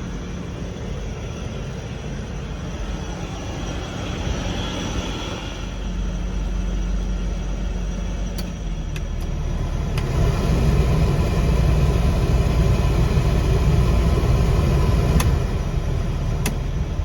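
1994 Toyota LiteAce truck running, a steady low rumble that grows louder about ten seconds in, with a few sharp clicks near the end.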